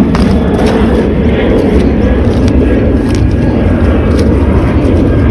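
Airplane flying overhead, a loud steady drone.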